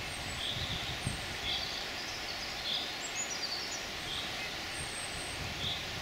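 Small birds calling: short high chirps about once a second, with a quick falling run of notes about three seconds in, over a steady background hiss.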